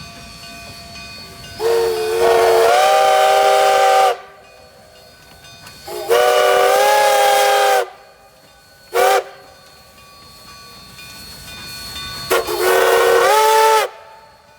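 D&RGW K36 narrow-gauge steam locomotive's chime whistle blowing the grade-crossing signal: two long blasts, a short one and a long one, each sliding up in pitch as the valve opens.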